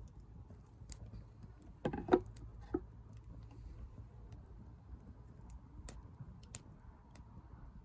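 Wood fire crackling in a fire-pit stand: scattered sharp pops and ticks over a low steady rumble. A short cluster of louder knocks comes about two seconds in.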